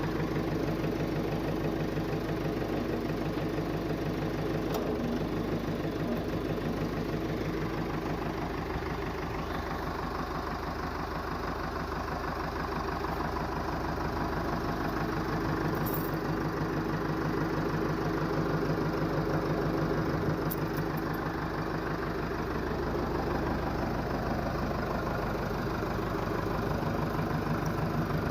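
Nuffield Universal DM4 tractor's four-cylinder diesel engine idling steadily, with an even knocking beat.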